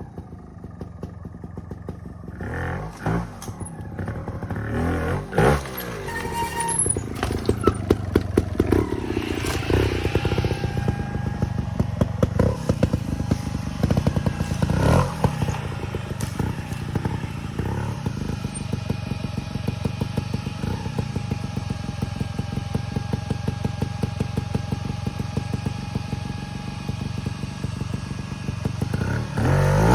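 Trials motorcycle engine running, with several short throttle blips that rise and fall in pitch, idling between them.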